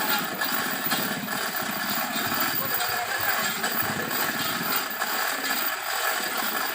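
A vehicle engine running at close range, a fast steady pulse under a wide rushing hiss of road noise.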